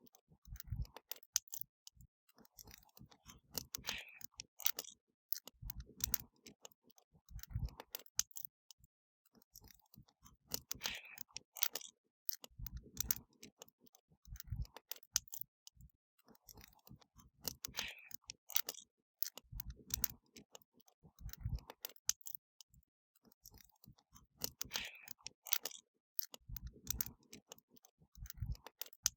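Wood fire crackling, with sharp pops and snaps and now and then a dull low thud. The same stretch of crackling repeats about every seven seconds, a short recording looped.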